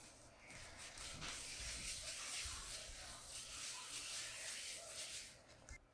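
Steady scratchy rubbing of an abrasive scouring the base of an artificial orchid by hand, roughening it so the epoxy will grip.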